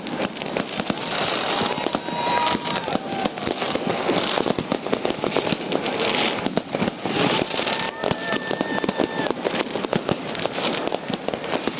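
Fireworks display: a dense, unbroken run of overlapping bangs and crackles.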